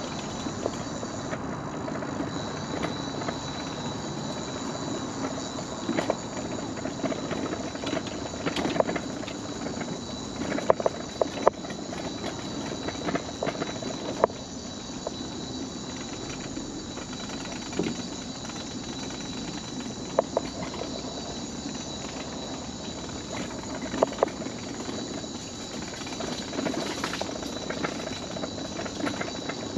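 Mobility scooter rolling along a wooden boardwalk, its motor running steadily and its wheels knocking and clacking irregularly over the deck boards. A steady high insect buzz runs underneath.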